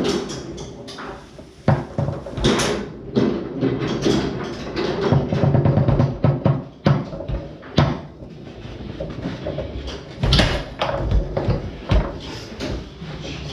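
Foosball rally on a Tornado table: the ball is struck hard by the plastic men and banged against the walls, with the rods clattering, in a fast, irregular run of sharp knocks. The hardest cracks come about 2, 8, 10 and 12 seconds in.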